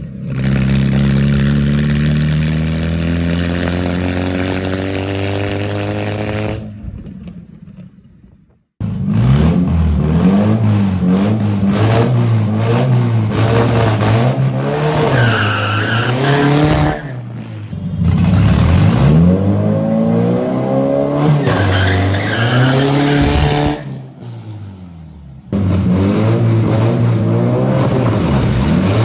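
Engine of a bare-chassis GT40 replica accelerating hard, its pitch climbing steadily for several seconds, then revving up and down over and over during hard driving, with brief tyre squeals at times.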